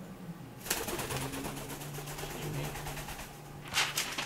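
Cape parrot giving a low, buzzy churring call for about three seconds, followed by a short, louder harsh sound near the end.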